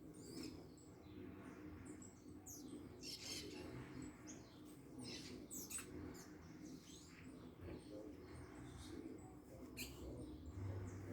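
Birds giving short, high chirps, scattered irregularly several times over a quiet background.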